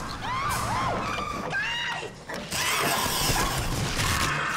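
Underground train carriage screeching and rumbling: high metallic squeals that bend up and down, then from about two and a half seconds a louder harsh grinding screech over a low rumble.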